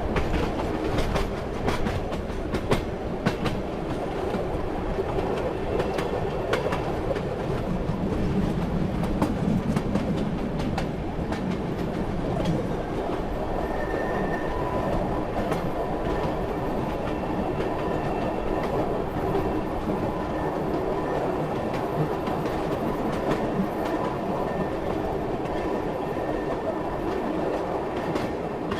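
Train running along the rails: a steady rumble with the clickety-clack of the wheels, and sharp clicks coming thickly in the first several seconds. A faint thin whine joins from about halfway through.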